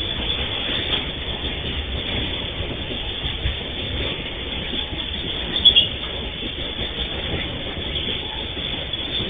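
Loaded freight train wagons rolling steadily past, their steel wheels rumbling on the rails, with a brief sharp metallic clank about halfway through.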